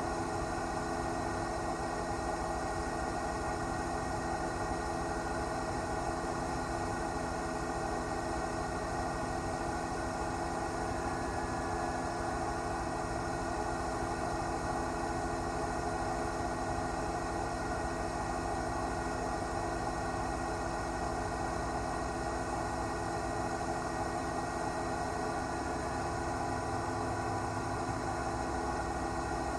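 News helicopter in flight: a steady engine and rotor drone with several steady hum tones over a broad hiss, unchanging in level.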